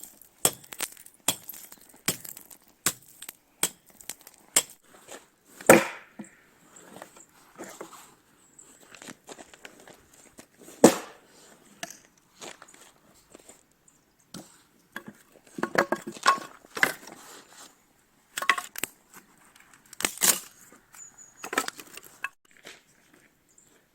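Heavy old axe chopping at ice: a run of sharp, uneven blows with ice cracking and breaking, the hardest strikes about six, eleven and twenty seconds in.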